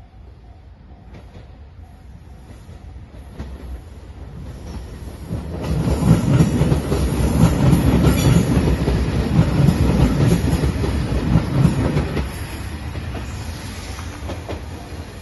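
JR Shikoku 2700 series diesel express train passing over a level crossing: the crossing bell dings steadily at first, then the train's running noise swells and is loud for about six seconds, with the clickety-clack of wheels over rail joints, before fading away.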